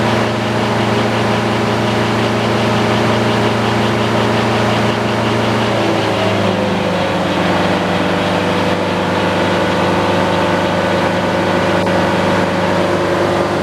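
Sawmill's engine running steadily, its pitch dropping a little about six seconds in, as when it takes on load.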